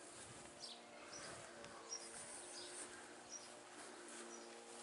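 Faint background birdsong: scattered short chirps over a low steady hum.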